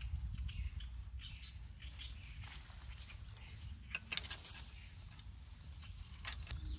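Birds chirping over a steady low rumble, with a couple of sharp clicks about four seconds in.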